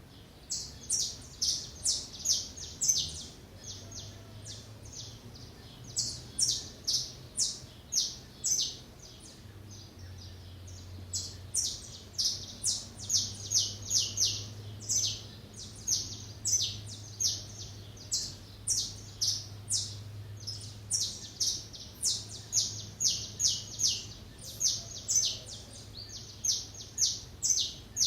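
Small songbirds chirping: short, sharp, high chirps repeated several times a second in runs, with brief gaps between runs.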